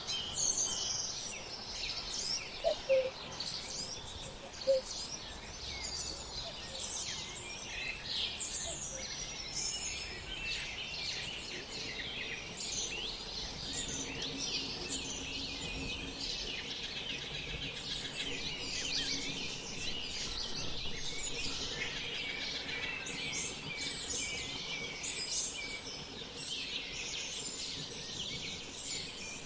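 Many small birds chirping and calling over one another: a dense, continuous chorus of short high calls.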